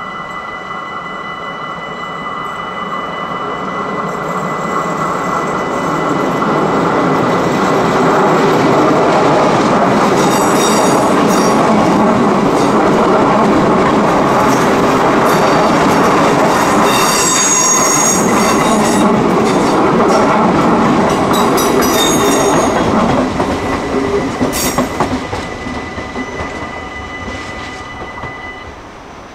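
NS Sprinter electric train passing over a level crossing. It builds up over the first few seconds, is loudest for most of the middle with high-pitched wheel squeal, then fades after about 23 s. Under it a level-crossing warning bell sounds a steady tone that stops near the end.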